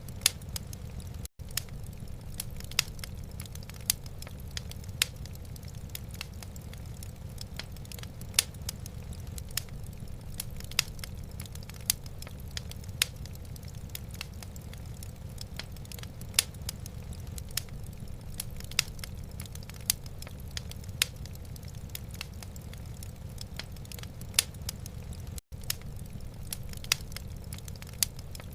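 Wood fire crackling in a fireplace: sharp pops about once a second and finer ticks between them, over a low steady rumble. The sound cuts out for an instant twice, once near the start and once near the end.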